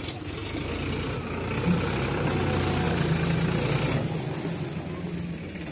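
Sonalika RX 35 tractor's diesel engine running, its steady hum rising in level shortly after the start and dropping back at about four seconds.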